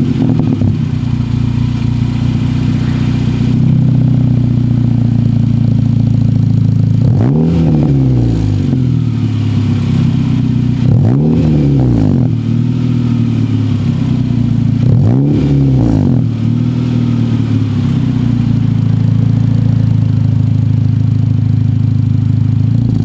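2015 Honda Civic Si's 2.4-litre four-cylinder running loudly through a newly fitted Tsudo angled canister catback exhaust. It idles steadily, blipped three times in short revs about four seconds apart, each rising and falling back to idle.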